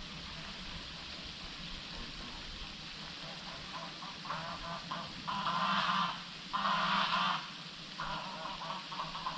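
Wild animals calling: a run of short repeated notes, about three or four a second, with two louder calls of nearly a second each just past the middle.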